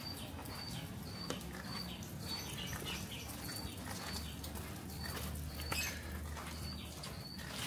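A small bird chirping over and over in short, high, evenly pitched peeps, about two a second, with the scuffs and clicks of footsteps walking on a paved path. A low steady hum comes in about halfway through.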